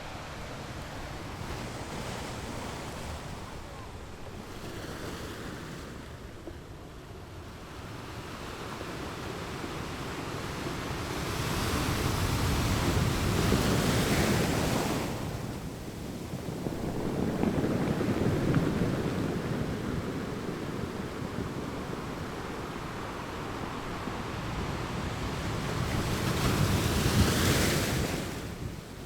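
Ocean waves breaking against rocks: a continuous wash of surf that swells into three larger crashes, the last and loudest near the end.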